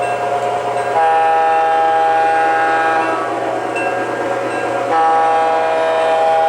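Sound system of an O scale model train locomotive sounding its multi-tone horn: one blast of about two seconds starting about a second in, then a second blast starting about five seconds in and held on, over the steady running noise of the layout.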